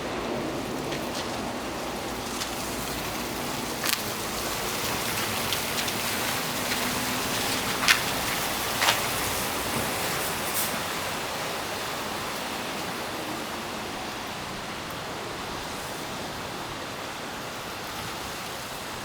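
Steady hiss of a city street's ambience during snowfall, with a few sharp clicks: one about four seconds in and two close together around eight to nine seconds.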